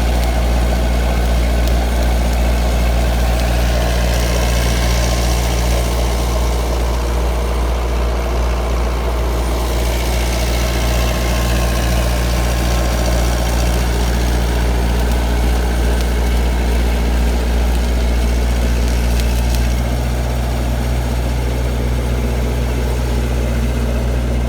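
A heavy diesel engine idling steadily: a deep, even hum that holds one speed throughout.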